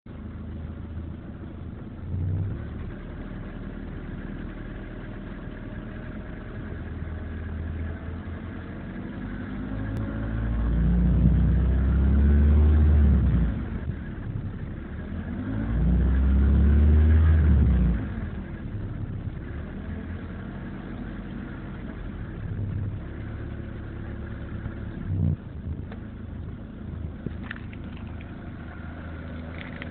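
BMW E36's M43 four-cylinder petrol engine idling with a knock, and revved twice near the middle for a few seconds each before dropping back to idle.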